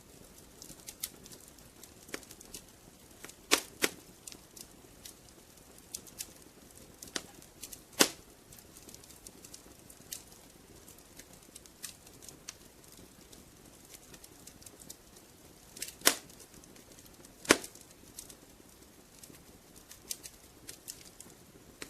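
Wood fire crackling in a fireplace: a steady scatter of small sharp clicks, with a handful of louder pops, over a soft low hiss.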